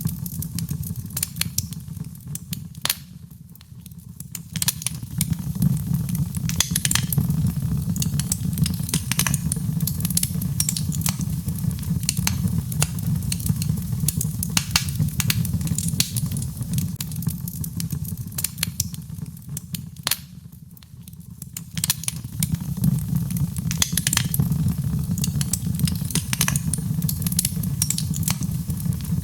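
Birchwood fire burning in a fireplace: frequent sharp crackles and pops over a steady low rumble of the flames, which eases briefly twice, about three and twenty seconds in.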